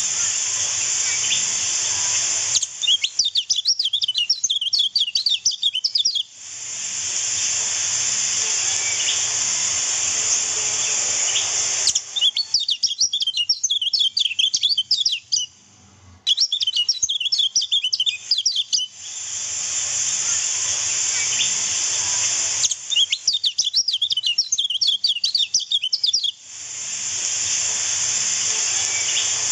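Kecial kuning white-eye chirping in rapid, high-pitched bursts, four bouts of a few seconds each, alternating with stretches of steady rushing-water hiss.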